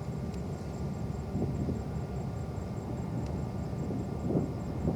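Steady low rumble of a distant jet airliner's engines, with a few brief swells.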